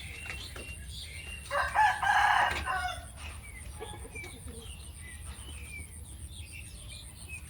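One loud, drawn-out animal call about a second and a half in, lasting just over a second, with small birds chirping throughout.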